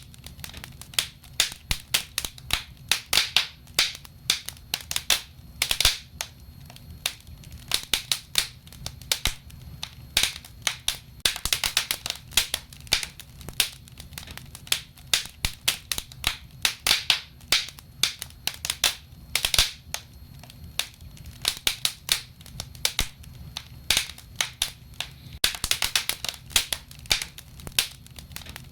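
Wood fire in a fireplace crackling and popping: irregular sharp snaps, often in quick clusters, over a low steady rumble of the flames.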